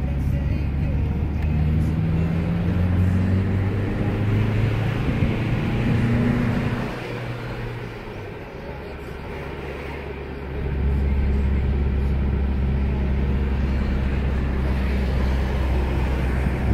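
Car engine and road noise heard from inside the cabin. The engine note climbs for several seconds, drops back about seven seconds in, then comes back louder and steady from about eleven seconds in.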